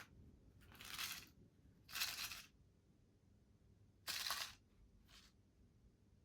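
Three short rustles, each about half a second, from rummaging through small model-railway spare parts in search of a nut.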